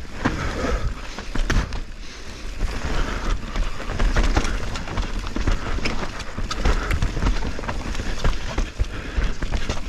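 A mountain bike riding fast down a rough, slippery dirt trail: tyres rolling over dirt and roots with many clattering knocks from the bike. A steady low rumble of wind runs under it.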